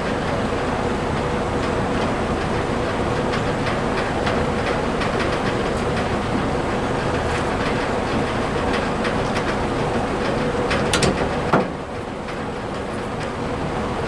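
Hand ratchet clicking as small 1/4-inch or 7 mm bolts are run into a plastic dash control panel, over a steady hum. A sharper click comes near the end, and after it the hum drops a little.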